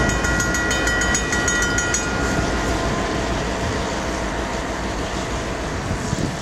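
Snow-plough train of a Jordan spreader pushed by two GP38 diesel locomotives passing close: the engines drone under a steady rush of noise, with wheels clicking rapidly over the rail in the first two seconds.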